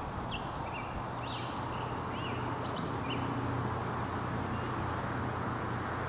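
A small bird chirping, a string of short high notes through the first three seconds, over a steady low outdoor rumble.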